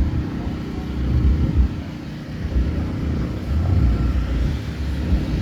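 Low, uneven outdoor rumble with no clear single source.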